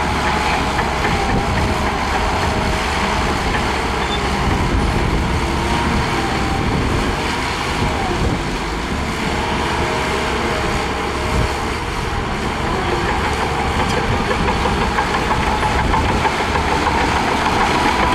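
A heavy diesel earthmoving engine runs steadily and loudly, with a continuous low rumble and a faint whine.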